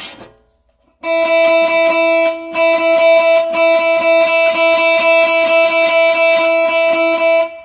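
Electric guitar played through a Bluesbreaker-style overdrive pedal. About a second in, it starts rapidly picking one held note and its octave in quick, even strokes, loud and sustained, and it stops just before the end.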